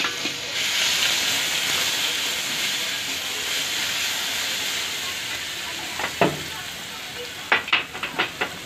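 Chopped garlic and kalonji sizzling in hot oil in a metal kadhai, the sizzle slowly dying down. Near the end a steel spatula scrapes and knocks against the pan several times as the garlic is stirred.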